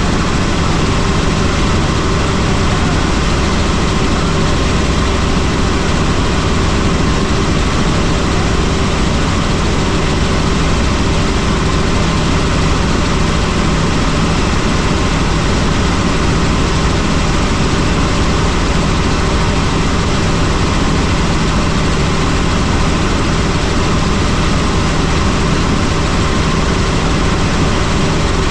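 Helicopter in flight: loud, steady engine and rotor noise with a constant hum, unchanging throughout.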